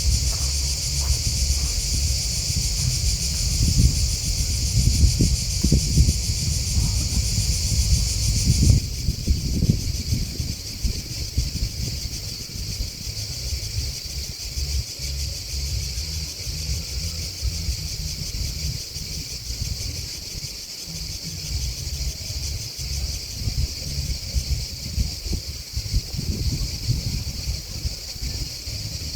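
A chorus of insects (crickets and grasshoppers) chirping in a steady, high-pitched shrill that drops a little about nine seconds in. Wind buffets the microphone with a gusty low rumble throughout.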